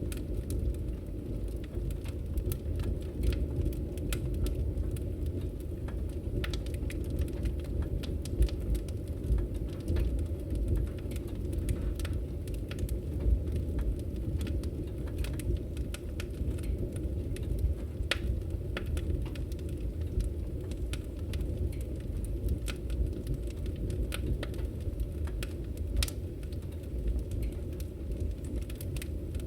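Wood fire in a fireplace crackling, with a steady low roar of flames under many small, irregular pops and snaps.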